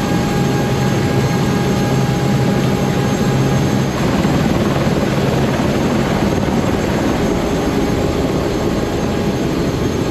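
Steady, loud engine drone with several constant hum tones, one of which drops out about four seconds in.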